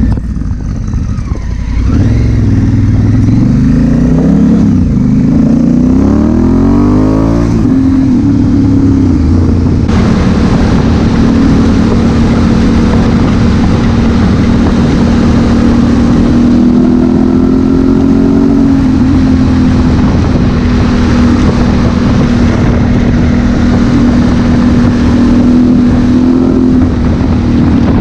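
Honda Africa Twin CRF1000L's parallel-twin engine pulling hard from about two seconds in, its pitch rising until about seven seconds. It then runs at a steady cruising speed with wind rushing over the microphone.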